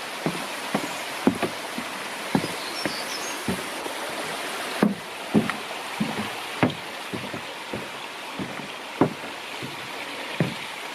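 Footsteps of a walker on a forest trail, irregular thuds about one to two a second, over a steady rushing hiss.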